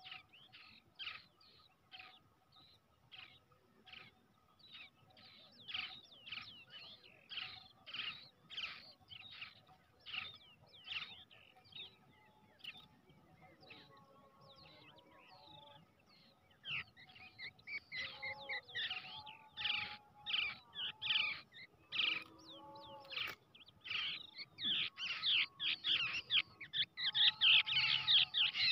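Brown shrike chicks calling in a long run of short, high chirps, about two or three a second, growing louder and more crowded near the end.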